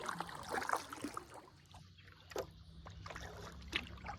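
Paddle strokes in calm water: a paddle dipping, with scattered small splashes and drips. A faint steady low hum comes in underneath about halfway through.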